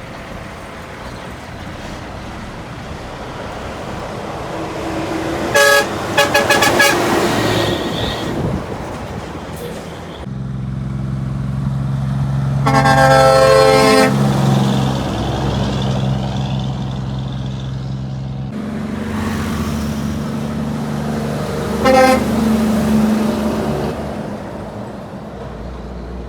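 Heavy trucks passing on a highway and sounding their horns: a few short toots about six seconds in, a long horn blast around thirteen seconds over a close truck engine's steady drone, and another short toot near the end, with engine and tyre noise throughout.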